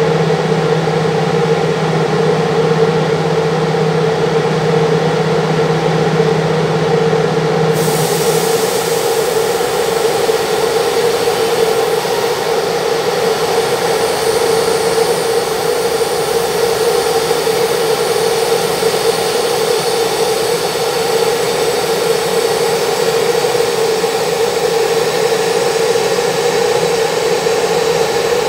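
Steady hum and whine of trains at a station, with a constant middle-pitched tone. About eight seconds in, a lower drone drops away and a hiss with a thin high whistle starts suddenly and carries on.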